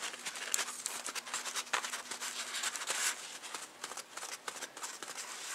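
Paintbrush brushing brown shoe-polish stain over a repaired chip on a Hydrostone cast piece: a run of soft, quick, irregular scratching strokes of the bristles.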